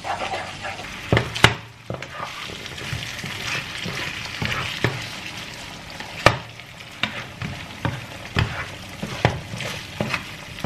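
Pesto pasta and chicken sizzling in a frying pan as they are stirred and tossed. A utensil knocks and scrapes against the pan again and again, about once a second.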